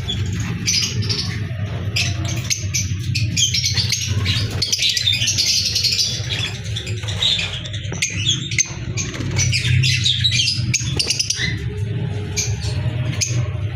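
Peach-faced lovebirds chattering: a dense, continuous run of rapid, high-pitched chirps, over a steady low hum.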